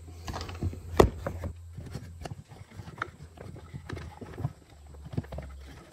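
Knocks and clicks of a homemade battery box being handled and slid into place in an electric dirt bike's frame, with one sharp knock about a second in and lighter taps after it.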